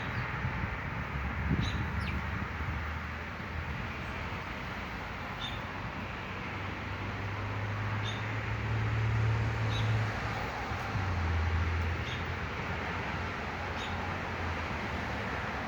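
Small birds giving short, high single chirps every second or two over a steady outdoor background rumble. A low drone swells and fades around the middle.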